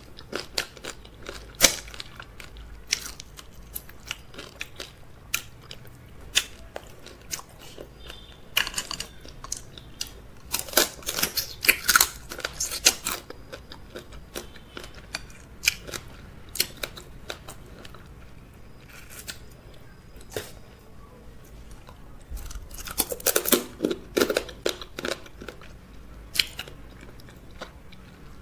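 Close-miked eating of fufu and okro soup with crabs: chewing and wet mouth sounds with sharp crunches and clicks throughout, busiest about eleven to thirteen seconds in and again around twenty-four seconds in.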